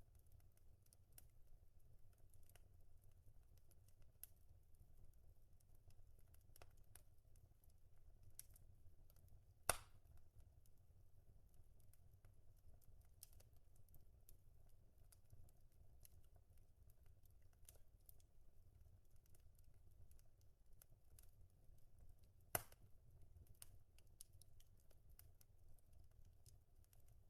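Near silence: a faint low hum with scattered light clicks, and two sharper ticks, about ten seconds in and near the end.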